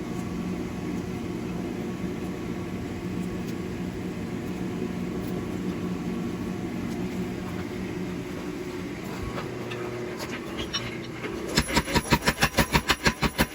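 Steady hum of running shop machinery, then, about eleven and a half seconds in, a mechanical power hammer starts pounding hot steel in a fast, even run of blows, about six a second.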